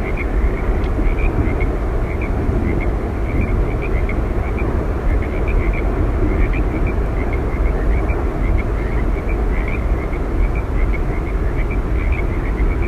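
Yosemite Falls roaring as a steady, even rush of falling water, heaviest in the low range, with small high chirps repeating irregularly above it.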